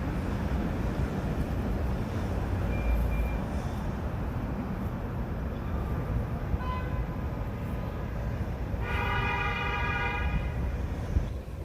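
Subway train running through the station with a steady rumble, and a horn sounds for about a second and a half near the end.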